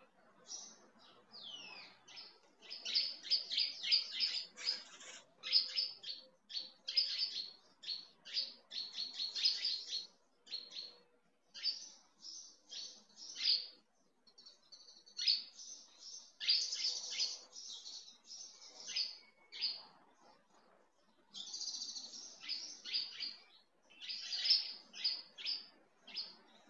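Small birds chirping and twittering in quick runs of short high notes, broken by brief pauses.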